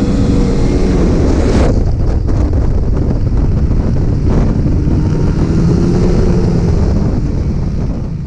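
Snowmobile engine running under way, mostly buried under loud wind rush on the microphone.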